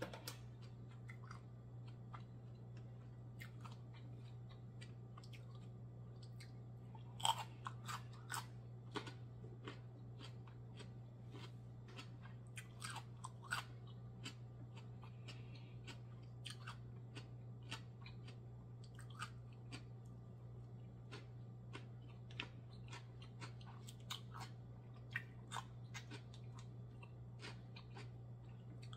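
Close-miked mukbang eating of steamed mussels and rice: chewing with scattered crisp crunches and clicks, the sharpest about seven seconds in. A steady low hum runs underneath.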